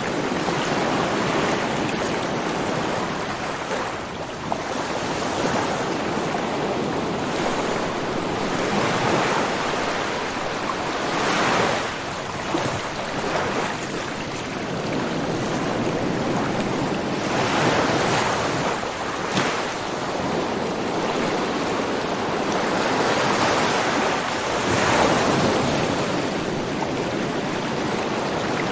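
Ocean waves breaking and washing on a shore, a continuous rushing noise that swells and ebbs every few seconds.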